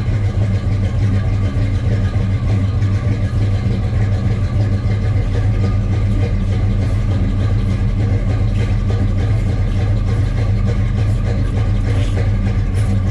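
Chevrolet small-block 350 V8 with a big cam idling steadily, still warming up after a cold start.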